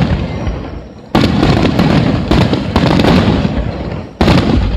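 Fireworks shells bursting in a rapid climax barrage: a sudden loud bang about a second in, followed by more bangs and a rumble that slowly fades, then another sudden loud bang near the end.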